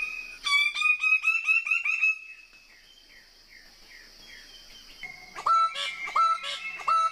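Lesser bird of paradise calling: a quick run of loud, downward-slurred notes, then fainter falling notes, and from about five seconds in a string of repeated level-pitched calls.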